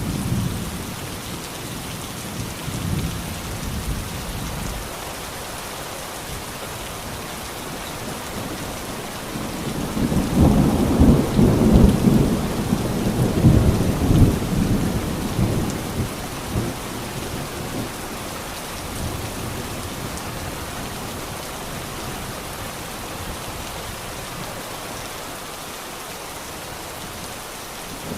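Steady, heavy rainfall hissing, with a long low roll of thunder that swells about ten seconds in and dies away by about sixteen seconds; fainter rumbles come near the start.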